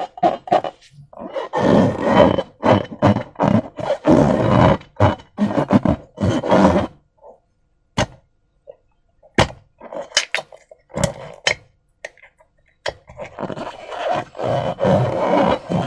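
Slime being squeezed and worked by hand: irregular wet squelches and sharp sticky pops in dense runs, thinning to a few single clicks in the middle before picking up again near the end.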